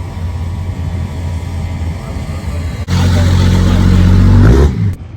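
Diesel truck engine rumbling low, then suddenly loud at full throttle for about a second and a half, its pitch falling as it comes off the throttle near the end.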